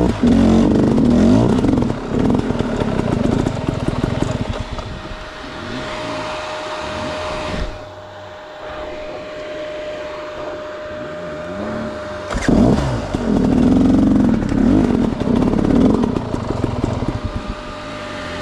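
Enduro dirt bike engine revving on an off-road trail, its pitch rising and falling with the throttle; it drops back for a few seconds in the middle and revs hard again about twelve seconds in.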